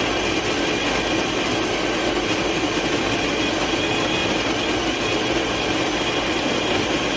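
Ollygrin electric conical burr coffee grinder running, a little loud, as it grinds beans at a setting between medium and fine. Its motor whir is even and steady, with a thin high whine over it.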